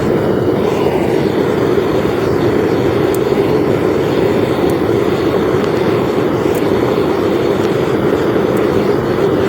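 Homemade propane furnace's burner running steadily: a loud, even rush of flame with no change in pitch or level. A few faint ticks come through over it.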